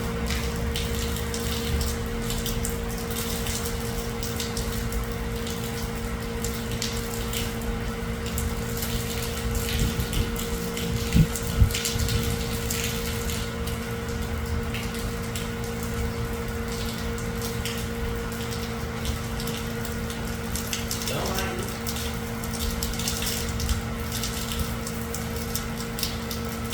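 Steady hum of an electric water pump with water running and splashing, and a couple of sharp knocks about eleven seconds in.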